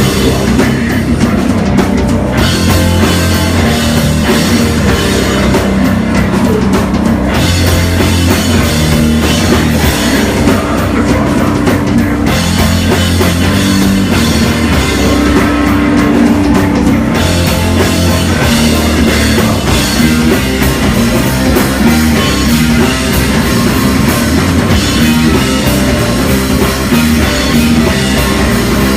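Heavy rock band playing loud and live, with distorted guitar, bass and drum kit. In the first half the cymbals drop out for a second or so about every five seconds, leaving a low, heavy riff; past the halfway mark the full band plays on with the cymbals going throughout.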